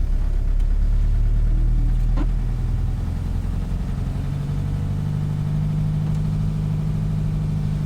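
Ford Transit motorhome's engine running as the van moves off slowly, heard from inside the cab; the engine note steps up to a higher pitch about four seconds in. A single short knock about two seconds in.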